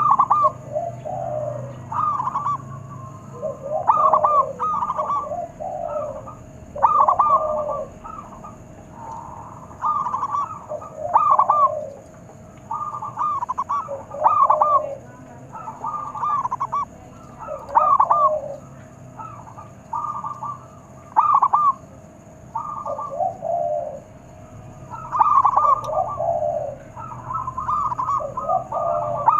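Zebra dove (perkutut) cooing over and over, each call a short run of rolling, bubbling notes, with a new phrase every two to three seconds.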